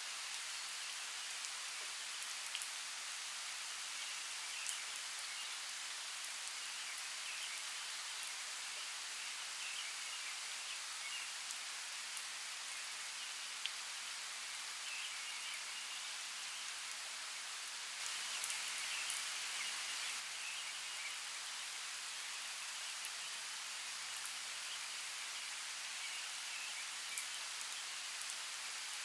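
Steady rain falling, with scattered sharp drops striking a surface and faint short bird chirps in the background. The rain swells a little for a couple of seconds about two-thirds of the way through.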